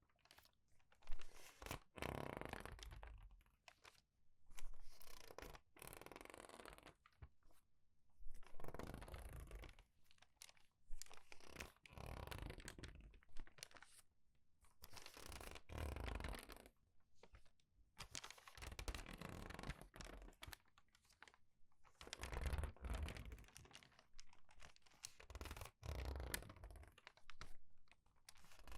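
Crinkled, crumpled paper pages being turned quickly and squeezed: repeated crackly rustling bursts about every one to two seconds, with short pauses between them.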